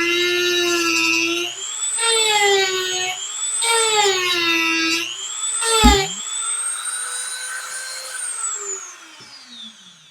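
Dremel rotary tool running at high speed, a high whine that sags in pitch each time it bites into the chip's epoxy. A sharp knock about six seconds in, then the tool is switched off and winds down with a falling whine.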